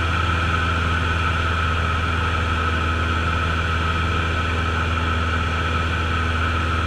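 Cessna's piston engine and propeller running steadily as heard from inside the cockpit: an even, unchanging drone with a low hum.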